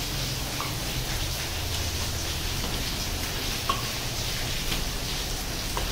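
Onion and prawn masala sizzling steadily in oil in an iron kadai, with a few small pops.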